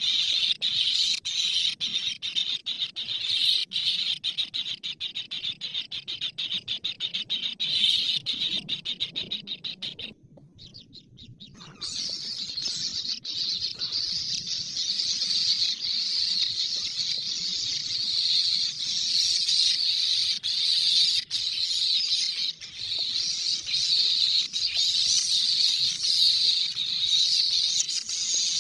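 Dense high-pitched chirping, almost unbroken and made of rapid pulses, dropping out for about two seconds roughly ten seconds in.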